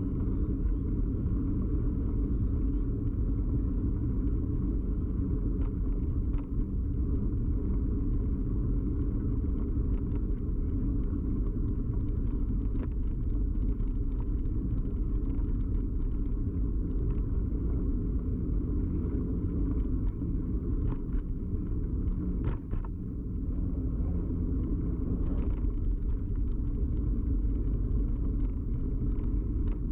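Steady low rumble of a bicycle ride picked up through a bike-mounted camera: tyres on the road and frame vibration, with a few sharp knocks from bumps along the way.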